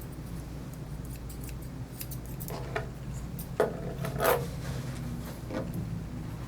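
Grooming shears snipping through a puppy's coat: a run of quick, light metallic cuts, with a few louder sounds around the middle.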